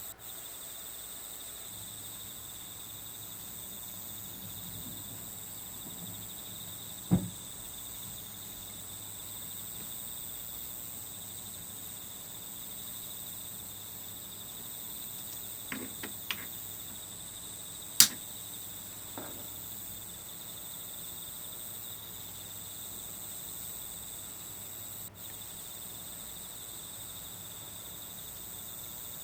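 Steady chirring of crickets from a nature-sound background. A few sharp clicks and taps break through it: one about seven seconds in, a small cluster a little past halfway, and the loudest shortly after that.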